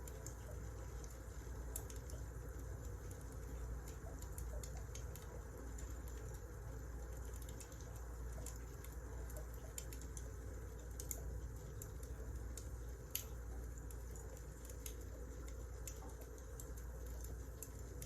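Firewood burning, giving a steady low rumble with irregular sharp crackles and pops.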